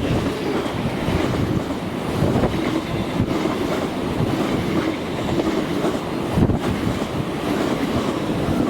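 A train passing on the line: a steady rumble of wheels on the rails, with a few faint clicks over the rail joints.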